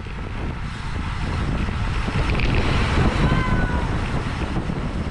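Wind buffeting the microphone of a camera on a bicycle racing in a criterium pack, a rushing roar that swells louder in the middle. A brief faint squeal is heard about three seconds in.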